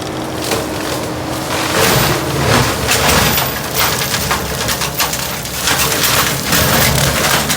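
Blue Diamond Severe Duty brush cutter on a skid steer mulching brush and small trees: irregular cracking and splintering of wood over the steady drone of the engine and cutter, growing louder about two seconds in.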